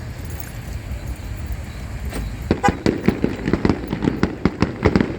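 Fireworks show: a low rumble, then from about halfway a rapid, irregular string of sharp pops and crackles from aerial fireworks going off several times a second.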